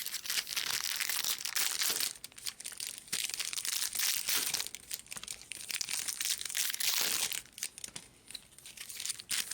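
Crinkling and tearing of trading-card pack wrappers as Bowman Chrome hobby packs are ripped open, a dense crackle that eases off for a moment near the end.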